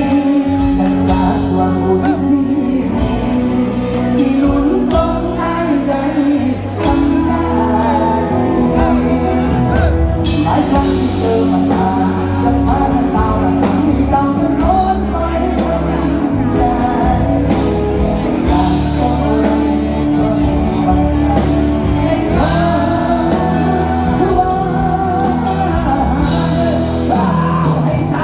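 Live luk thung band music with singing over a steady beat and heavy bass.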